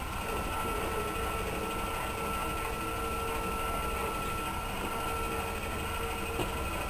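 GE E12 ElecTrak electric garden tractor running, its electric drive motor giving a steady whine with two held tones over a constant low hum.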